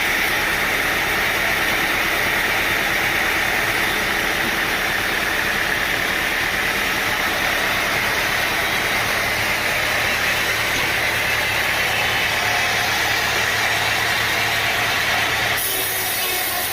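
Sawmill machinery running steadily: an engine-driven saw rig with a constant hum and a strong hiss, changing abruptly to a slightly duller mill sound about a second before the end.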